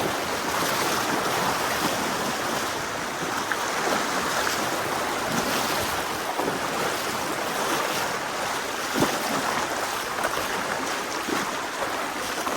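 Steady rush of a fast-flowing river current, with a sharp knock about nine seconds in.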